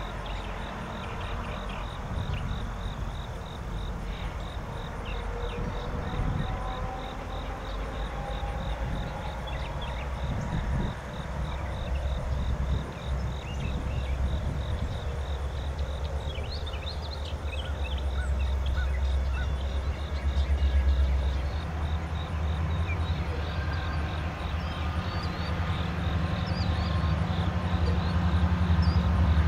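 Diesel locomotives of a freight train approaching: a low engine rumble that grows steadily louder, over a steady pulsing chirp of insects.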